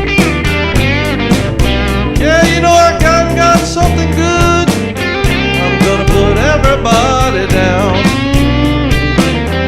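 A blues band plays an instrumental passage: a lead line with bent, sliding notes over bass and a steady beat.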